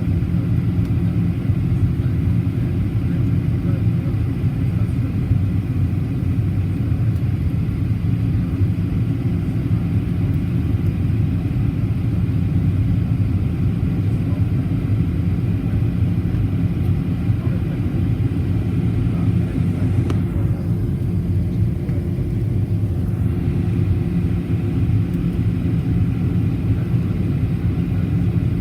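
Steady low rumble inside the cabin of a Boeing 737-800 in flight: the hum of its CFM56-7B turbofan engines mixed with airflow noise.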